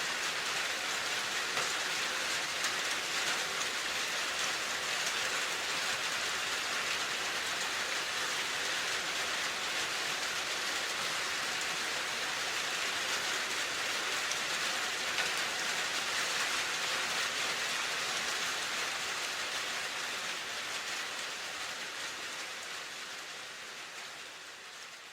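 Steady rain falling, a dense even hiss of drops with no single drop standing out. It fades away over the last few seconds.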